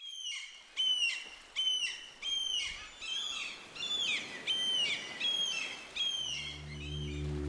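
A bird calling over and over: about ten sharp, similar calls a little under a second apart, over a faint steady hiss. A low, steady musical drone comes in about six seconds in.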